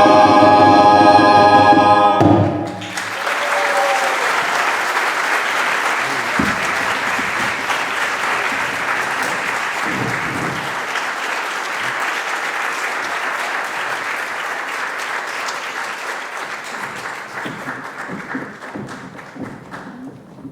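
A cappella vocal ensemble holding a final chord that cuts off about two seconds in, followed by audience applause that slowly fades near the end.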